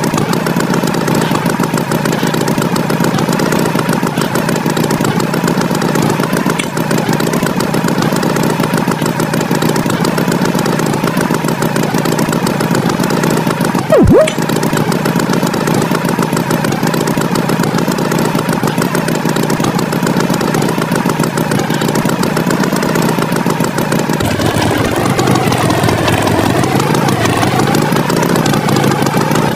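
Engine sound effect for a cartoon tractor, running steadily and loudly. A brief sharp sound cuts in about halfway through, and the engine note turns wavering near the end.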